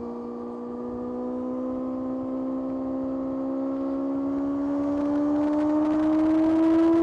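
Kawasaki ZX-6R's 636 cc inline-four engine pulling steadily in one gear, its pitch and loudness rising slowly and evenly as the revs climb.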